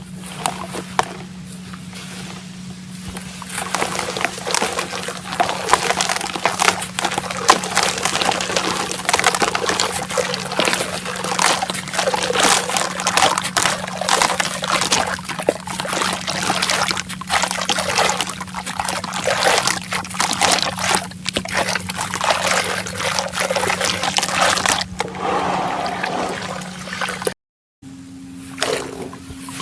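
Dry sand-cement crumbles being dipped into water, with a dense run of small crackles and trickling as the water soaks in. A steady low hum runs underneath, and the sound cuts out briefly near the end.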